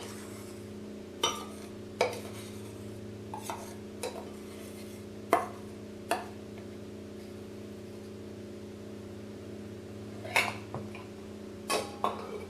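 A kitchen utensil clinking and knocking against a metal can and the blender jar while ingredients are scraped and poured in: about nine short, sharp knocks spread unevenly, with a pause of several seconds in the middle. A steady low hum runs underneath.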